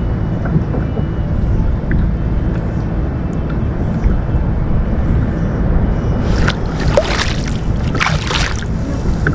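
Sea water sloshing and splashing against a fishing kayak over a steady low rumble. About six seconds in the splashing grows louder for a couple of seconds.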